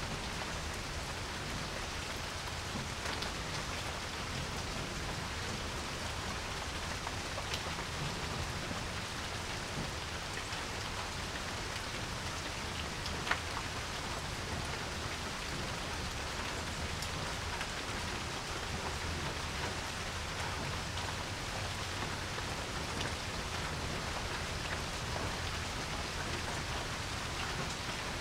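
Steady rain falling on a porch, with scattered drops tapping and one sharper drip about halfway through.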